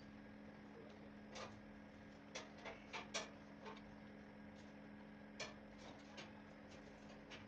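Near silence with a steady low hum and a scattering of faint, irregular clicks and light taps.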